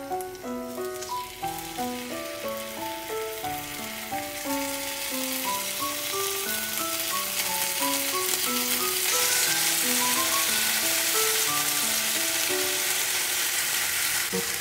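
Gochujang-coated deodeok roots sizzling in oil in a cast iron skillet, the sizzle building as more pieces are laid in and loudest from about nine seconds in. Light background music with a melody of short notes plays throughout.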